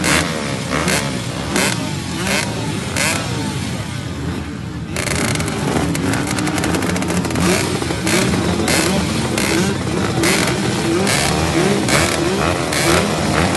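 Off-road motocross/trail bike engines revving, the exhaust note rising and falling again and again with a crisp edge, growing denser and brighter about five seconds in.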